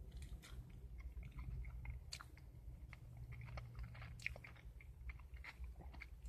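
A person chewing food close to the microphone: small wet mouth clicks and crackles, over a steady low hum.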